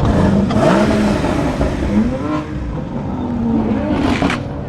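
Car engines running and revving as cars drive off, the pitch rising and falling, with a sharp burst of noise about four seconds in.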